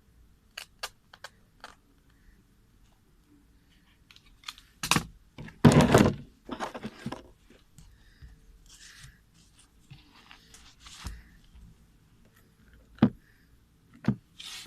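Hands at work repairing a torn sneaker: a few light clicks, then a loud rasping noise lasting about two seconds midway, and two sharp knocks near the end.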